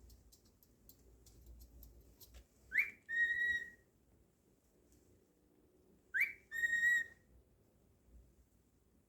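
Cockatiel whistling twice: each time a quick rising note, then a held clear note. Faint light ticks come before the whistles.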